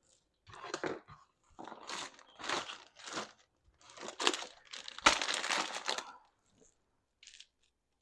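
Plastic bag crinkling and rustling as it is handled in several short bursts, the longest about five seconds in.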